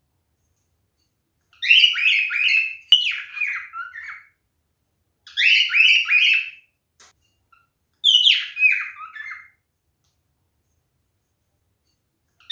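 Male cockatiel calling: four phrases of short, loud chirped notes, each phrase stepping down in pitch, about one to one and a half seconds long, with gaps of silence between them.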